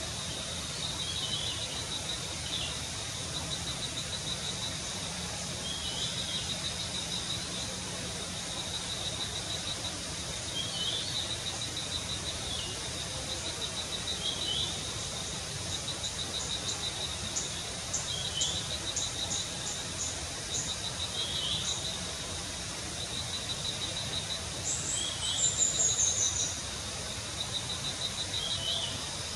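An insect trilling steadily in fast even pulses at one high pitch, with short falling bird chirps every few seconds and a louder falling bird call a little before the end.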